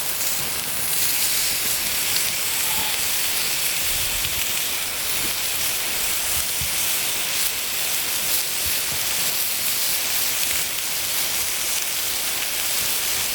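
Bacon-wrapped pork mince balls sizzling steadily on a hotplate over a campfire, with a few faint knocks.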